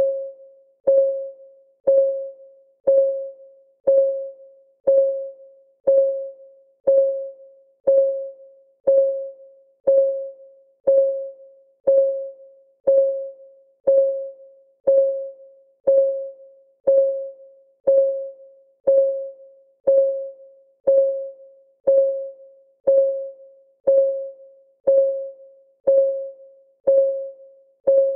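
Clock ticking sound of a countdown timer: one tick every second, perfectly even, each a short click with a mid-pitched ringing tone that fades quickly.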